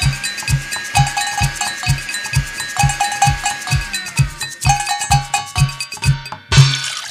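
Kitchen band percussion on metal kitchen utensils: a steady beat of low thumps, about five every two seconds, under metallic clanks and ringing, cowbell-like strikes. A held tone runs over it and falls away about halfway through. Near the end a loud hit closes the beat.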